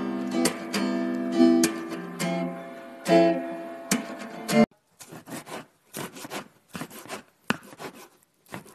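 Acoustic guitar music, plucked and strummed, which cuts off abruptly about halfway through. It is followed by quieter, irregular scraping and rubbing sounds, like a plastic toy knife being drawn across a plastic toy fish.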